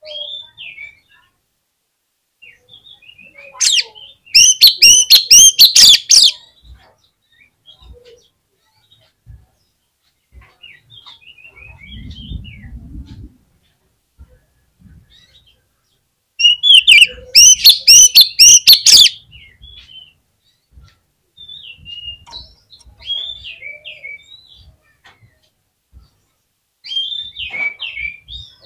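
Oriental magpie-robin (kacer) singing. There are two loud bursts of fast, repeated high notes, one about four seconds in and one past the middle, with softer scattered whistled notes between them and again near the end.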